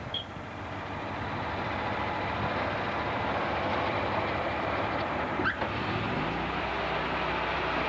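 Sawmill machinery running with a steady mechanical din. There is a brief squeal about five and a half seconds in, and a low steady hum comes in about six seconds in.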